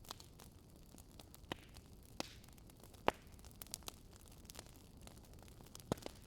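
Wood fire crackling: scattered sharp pops and snaps at irregular intervals, the loudest about three seconds in, over a faint steady low rumble.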